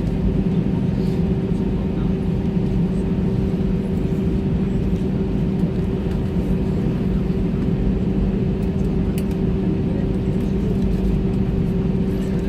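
Steady cabin noise inside an Airbus A320 on the ground just after landing: a continuous hum and rush with a few held low tones, broken by occasional light clicks.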